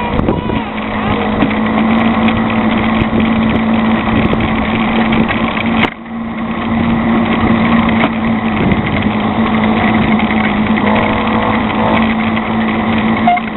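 Small engine of a motorized bicycle running steadily, with a click and a brief drop in level about halfway through.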